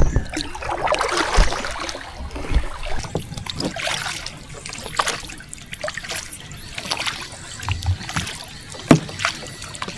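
Paddle strokes splashing and dripping in water from a small boat being paddled, with a few sharp knocks.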